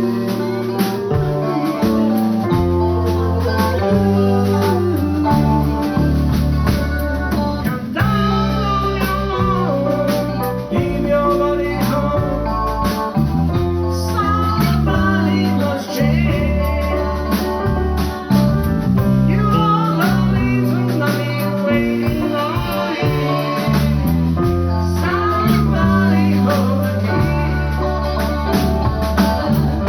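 Live band playing a blues-style number, a bass line stepping under the full band. From about eight seconds in, a lead line with bending, wavering notes sits on top.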